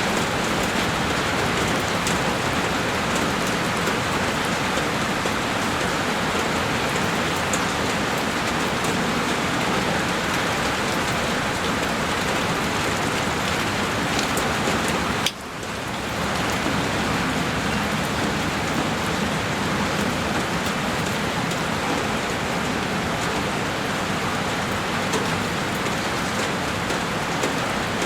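Heavy rain falling on a window pane: a dense, steady hiss of rain with scattered sharper drop ticks. About halfway through, the sound briefly drops away and swells back within a second.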